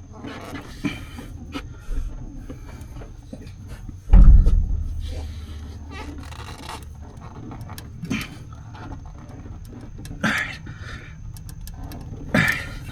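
A man grunting and breathing hard as he hand-tightens a new spin-on oil filter. A heavy low thump about four seconds in is the loudest sound, over a steady low hum.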